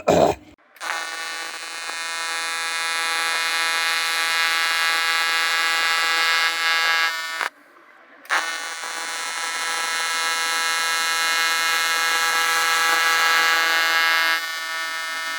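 Welding arc on aluminium buzzing steadily in two runs of about six to seven seconds, with a short break between them.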